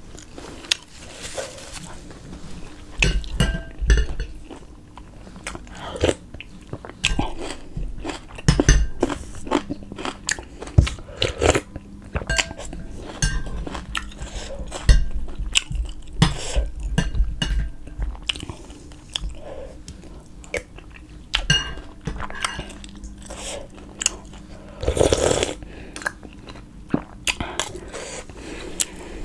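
Close-miked eating: repeated biting, crunching and chewing of food, with occasional clinks of dishes and cutlery.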